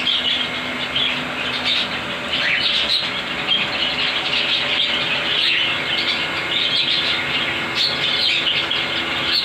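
Many caged pet parrots chirping and chattering at once, a dense, continuous, overlapping twitter.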